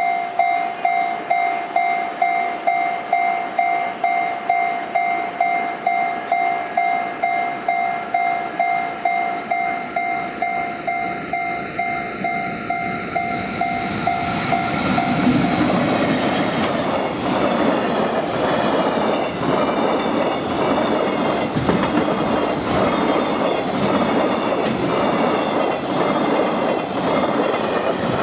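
A level-crossing warning bell ringing steadily about twice a second. About halfway through, a freight train hauled by an EF65 electric locomotive passes close by, its wheels clattering rhythmically over the rail joints and drowning out the bell.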